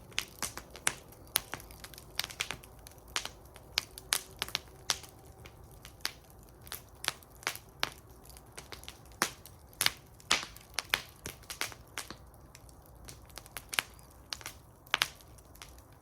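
Wood fire burning in a fire bowl, crackling with irregular sharp pops and snaps, several a second, over a low steady rumble of the flames.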